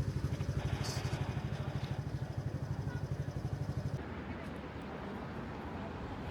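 An engine running with a fast, even low throb for about four seconds, then an abrupt change to a steadier, smoother rumble.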